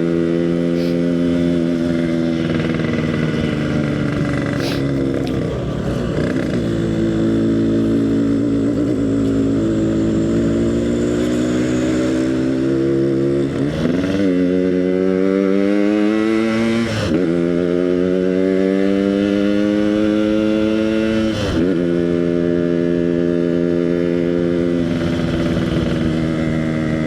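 Yamaha RX-King two-stroke single-cylinder motorcycle engine, fitted with an EnzyProject exhaust, running under way. Its note rises and falls with the throttle, with sharp changes in pitch about halfway through and twice more later, as gears are changed.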